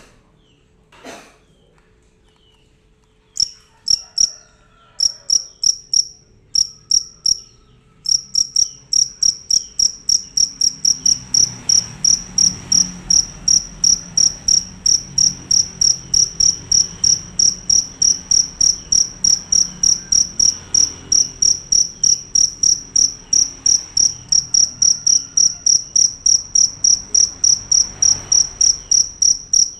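A field cricket (jangkrik) singing loudly with high, evenly repeated chirps. A few short bursts come a few seconds in, then from about eight seconds the chirping runs without a break, about three to four chirps a second.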